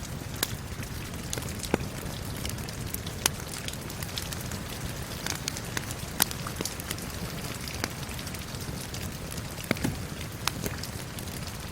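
Steady rain with a fireplace fire crackling over it, sharp pops and snaps coming irregularly every second or so.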